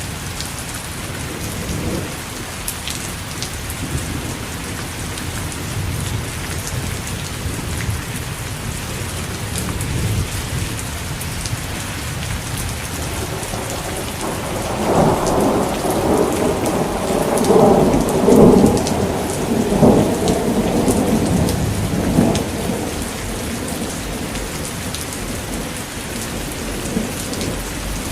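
Steady rain, with a roll of thunder that swells about halfway through and dies away some eight seconds later.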